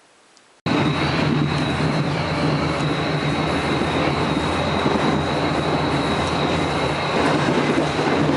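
Moving train running steadily: a dense rumble and rush with a low hum and a thin, steady high whine above it. It cuts in suddenly about half a second in, after a moment of near silence.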